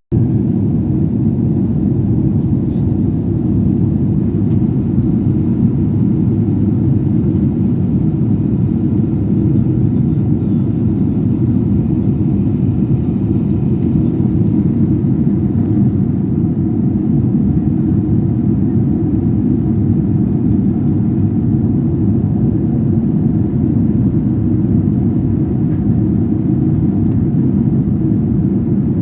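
Steady low rumble of a passenger airplane in flight, heard from inside the cabin, holding level without change.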